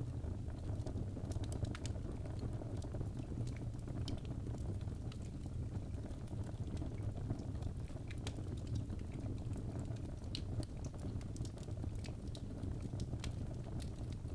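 Fire burning in a fireplace: a steady low rumble of the flames with scattered, irregular sharp crackles and pops.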